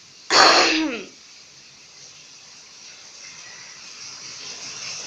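Steady hiss of rain falling, growing slightly louder toward the end. About a third of a second in, a person makes one short, loud vocal burst that falls in pitch.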